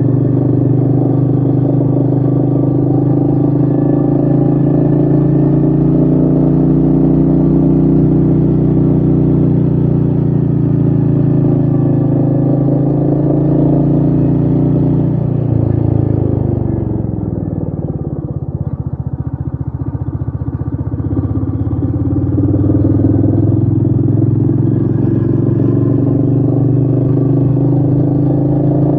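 Royal Enfield Meteor 350's single-cylinder engine running steadily under load. About halfway through the revs fall away as the throttle is rolled off, the sound dips for a few seconds, then the revs climb back up to a steady pull.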